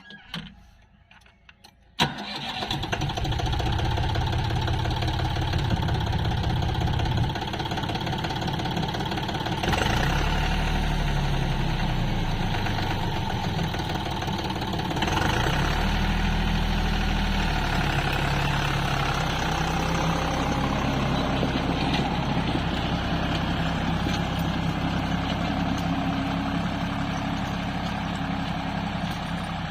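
Deutz-Fahr tractor's diesel engine comes in suddenly about two seconds in and runs steadily. Its pitch dips and rises twice, near ten and fifteen seconds in, as the revs change.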